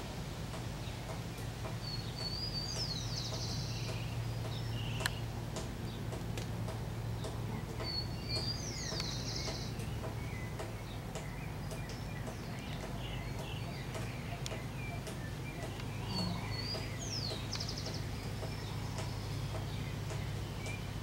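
A songbird repeats a short song about every six seconds, a downward whistled note followed by a quick high trill, with other scattered bird chirps. A steady low hum runs underneath.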